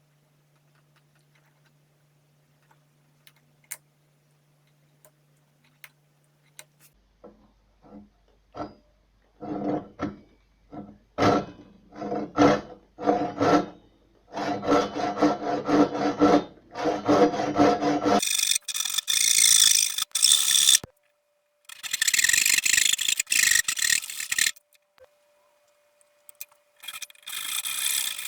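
Hand tool scraping wood in repeated back-and-forth strokes. It is quiet for the first several seconds, then the strokes start about seven seconds in and grow louder. In the second half they give way to longer, harsher runs of scraping with short pauses between them.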